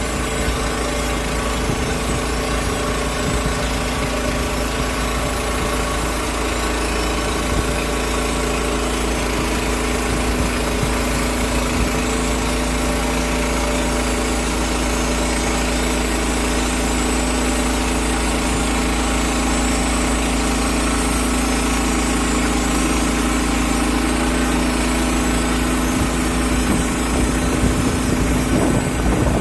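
Portable sawmill's gas engine running steadily under load while the mill cuts a 2-inch slab off an oak cant.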